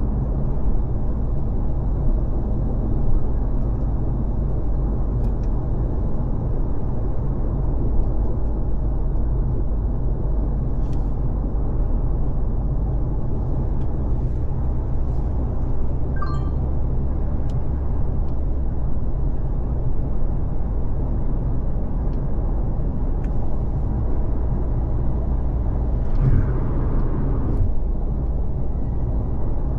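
Car cruising on a freeway: steady rumble of road and engine noise, with a brief louder rush near the end.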